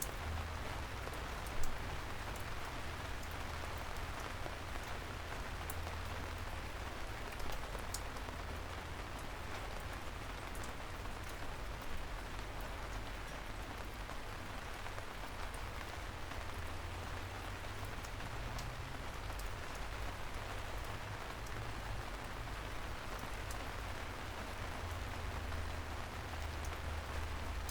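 Steady light rain falling on city streets, with a constant low rumble underneath and scattered sharp drip clicks, one louder about a second and a half in.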